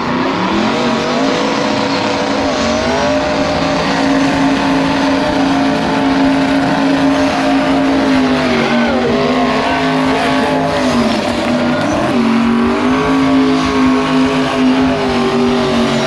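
Burnout: a car or truck engine held at high, fairly steady revs while the tires spin on the pad, with the revs dipping briefly a few times.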